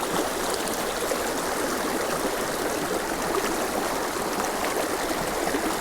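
Mountain creek water rushing steadily, an even wash of flowing water with no breaks.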